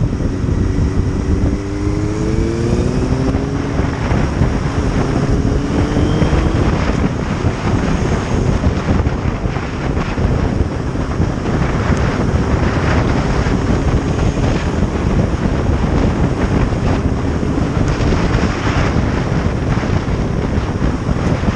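Motorcycle riding at speed, with heavy wind noise on the microphone over the engine. The engine's pitch rises twice in the first seven seconds as it accelerates, then holds steady.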